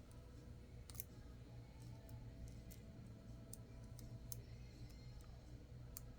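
Faint, scattered small clicks and taps from handling the iPad's ribbon connectors and small parts, about five over a few seconds, over a low steady hum.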